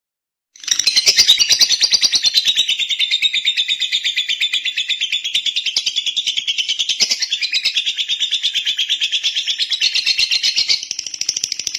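Lovebird singing a long, unbroken rapid chatter of high chirps, many pulses a second. It starts abruptly after a short silence about half a second in.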